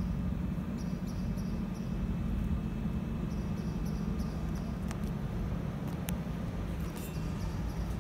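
Low steady rumble of a Network Rail maintenance train approaching along the line, still far off, with two faint clicks about five and six seconds in.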